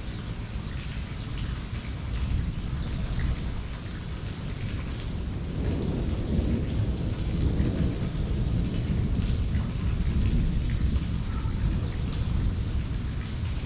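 Steady rain falling, with scattered drops ticking close by. A low rumble of thunder swells in about five seconds in and rolls on for several seconds.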